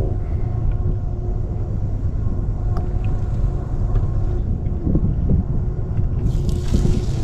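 A steady low rumble, with a brighter hiss swelling near the end.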